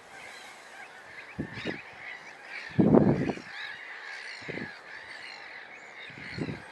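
Waterbirds calling: four harsh, low calls, the loudest and longest about three seconds in. Underneath runs a steady background of many higher, chattering calls from a flock.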